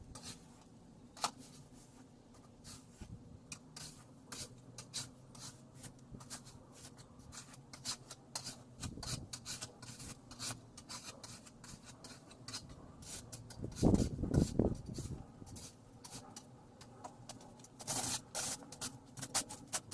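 Snow crunching and scraping in quick, irregular strokes. There is a louder cluster of heavier scrapes about two-thirds of the way through, and dense crunching again near the end.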